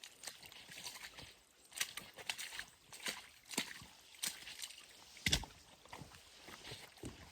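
Footsteps of someone walking through the forest, a short crunching or squelching step roughly every half second to second, with one heavier step about five seconds in.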